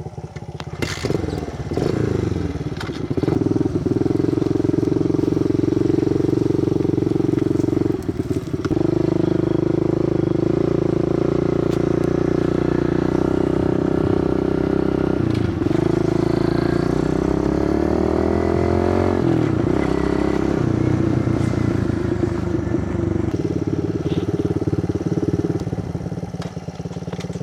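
Kawasaki KLX110 pit bike's small single-cylinder four-stroke engine running steadily. Its pitch drops and climbs back about halfway through, and again a few seconds later.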